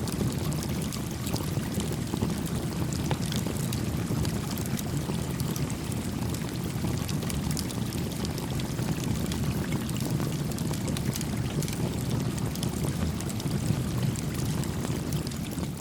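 Stream water flowing steadily, with a small campfire crackling through it in scattered sharp little pops.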